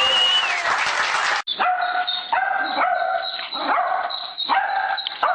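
A dog barking in a regular series of high, ringing barks, about one every three-quarters of a second, starting about a second and a half in after other sound cuts off abruptly.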